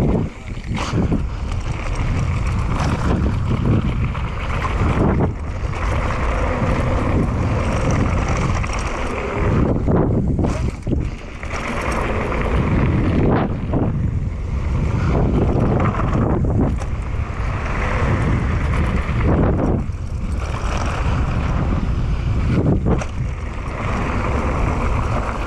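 Wind buffeting the rider's microphone while a downhill mountain bike rattles over a dirt trail at speed, with occasional sharp knocks from bumps and brief dips in the rush.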